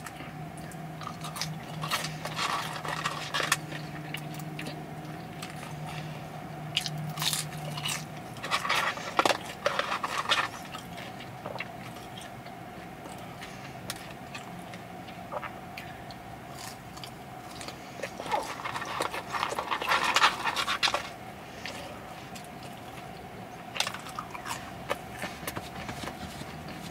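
Close-up eating sounds: yam fries being chewed, with crackling and rustling of the paper-lined cardboard fry box as fries are picked out, loudest in bursts about a third of the way in and again around two-thirds in. A faint steady hum runs underneath.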